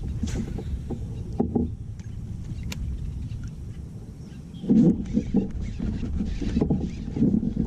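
Wind rumbling on the microphone over the small knocks of a fishing kayak on the water, with a run of louder knocks and rustling starting a little after halfway.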